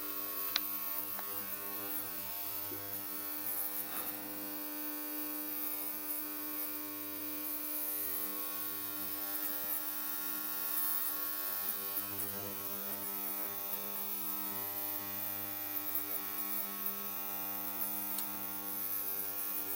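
Ultrasonic cleaner running: a steady electrical hum made of many evenly spaced tones, unchanging throughout, with a faint tick or two near the start.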